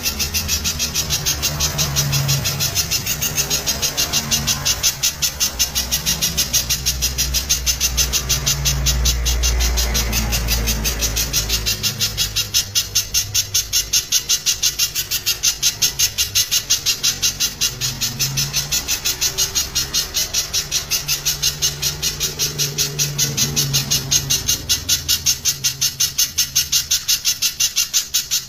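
Spiderhunter singing a loud, rapid string of sharp, evenly repeated notes, about four a second.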